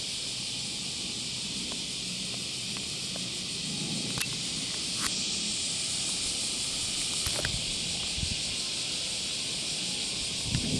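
Steady high-pitched outdoor hiss with a few sharp clicks. Right at the end a low rumble begins to swell, the noise of a fighter jet arriving.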